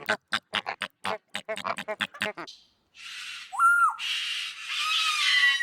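An animal's rapid string of short grunts, about five a second, that stops about halfway through. After a brief pause come a few squawking, whistle-like calls over a steady hiss.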